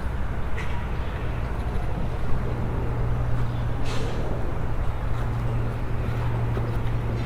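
Outdoor traffic noise with a steady low hum that sets in about two seconds in, and a few faint clicks.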